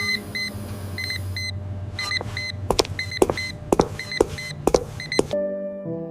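Short high electronic beeps, often in pairs, repeating over a steady machine hum, with a run of sharp clicks from about two seconds in. Soft music takes over near the end.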